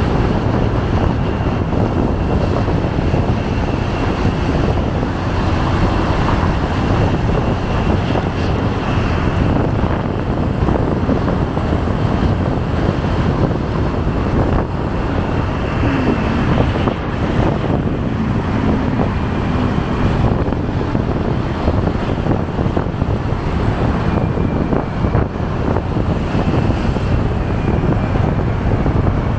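Wind rushing over the microphone on a moving motorcycle, mixed with the motorcycle's engine and the steady noise of surrounding traffic.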